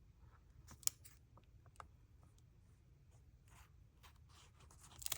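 Faint handling of paper being glued down on a journal page: a few small sharp clicks, the clearest about a second in, and soft brief rubs.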